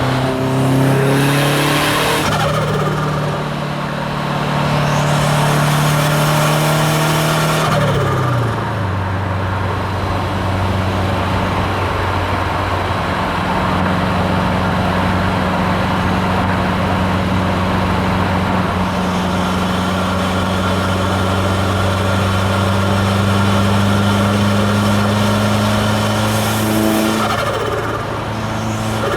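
Subaru WRX STI's turbocharged flat-four engine running under way, its pitch stepping down at gear changes about eight seconds in and near the end. Three stretches of loud rushing hiss from the hybrid turbo and external wastegate: near the start, from about five to eight seconds, and near the end, each fading out as the engine note drops.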